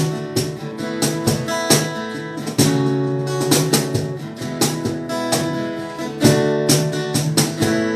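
Acoustic guitar strumming chords in a steady rhythm, with a few chord changes, as a song's instrumental intro.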